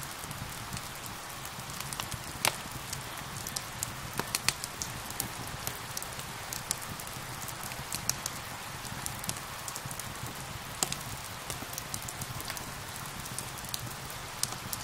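Steady rain with a fireplace fire crackling over it, sharp irregular pops and snaps scattered throughout.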